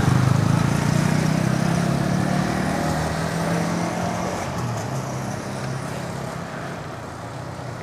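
A motor vehicle's engine running close by. It is loudest at the start and fades steadily over several seconds as it draws away, over the hiss of street traffic.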